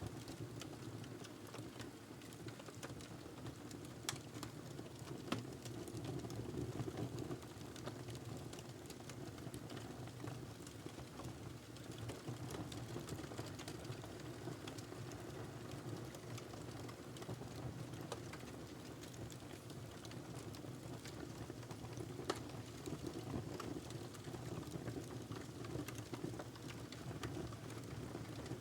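Wood fire burning in a fireplace: a steady low rush of flames with scattered crackles and a few sharper pops.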